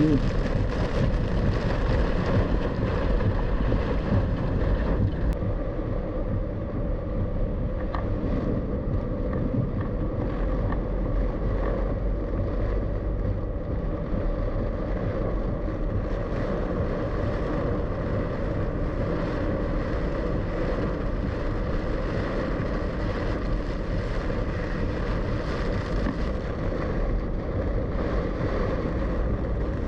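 Steady cabin noise of a car driving through a heavy thunderstorm: engine and road drone with the rush of rain and wind on the car.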